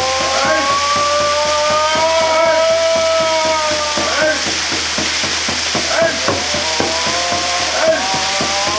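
Waterfall water pouring with a steady rush, with long drawn-out chanting voices held over it that change note every few seconds.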